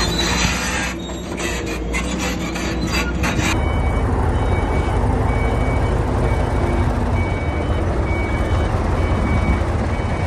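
Heavy earthmoving machinery: a diesel engine runs with rapid metallic clanking for the first three seconds or so. The sound then changes abruptly to a steady engine rumble with a reversing alarm beeping a little under once a second.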